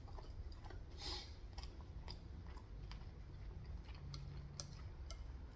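Quiet chewing of crispy Korean fried chicken: soft crunches and small mouth clicks, with a louder crunch about a second in.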